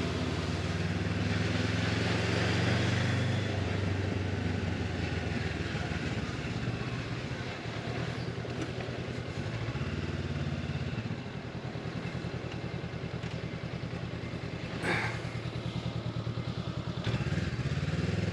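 Motorcycle engine running while riding, its note rising and falling with the throttle. There is a brief sharp click about fifteen seconds in.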